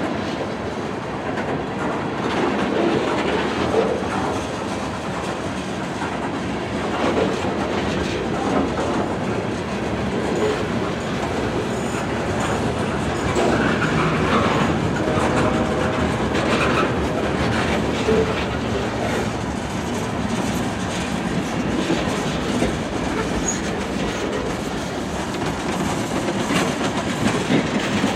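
Freight train rolling along, its steel wheels clicking and clattering over the rail joints in a steady, continuous rumble.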